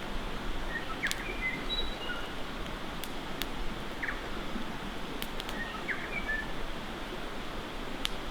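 Campfire crackling with a few sharp, scattered pops over a steady rush of river water. Short bird chirps come through at intervals.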